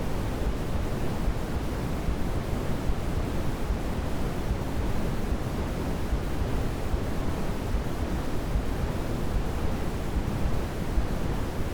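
Steady white noise played as a baby sleep aid: an even, unchanging rushing sound, heavier in the low end so it sounds deeper than a thin hiss.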